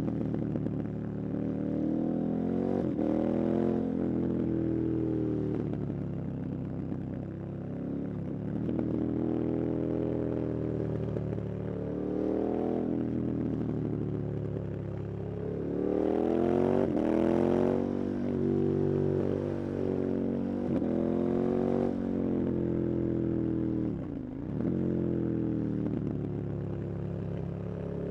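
KTM 1290 Super Adventure's V-twin engine under hard riding, its pitch climbing again and again under acceleration and dropping sharply at gear changes or when the throttle closes.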